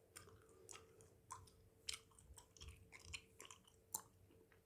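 Close-miked mouth chewing bubblegum: soft, irregular wet clicks and smacks, several a second.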